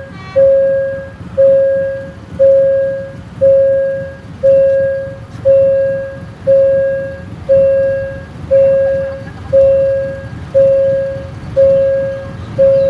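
Railway level-crossing warning bell ringing, one clear ding about every second, each stroke fading before the next, over a low rumble.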